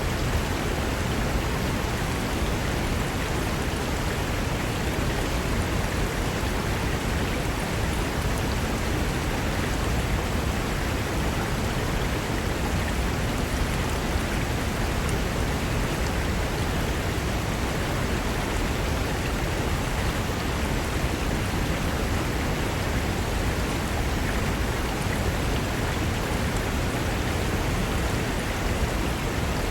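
Fast mountain river running over rocks: a steady, unbroken rush of water.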